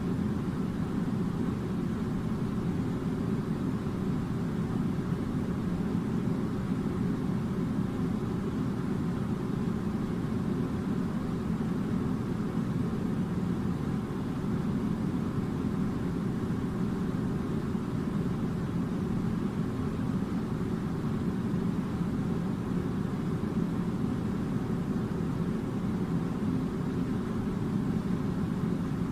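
Air conditioner running: a steady, unbroken low hum and rush that does not change.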